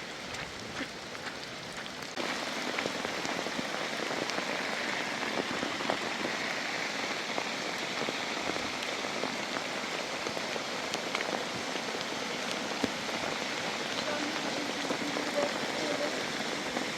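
Heavy rain falling steadily on a surface, a dense hiss with scattered drop ticks, growing louder about two seconds in.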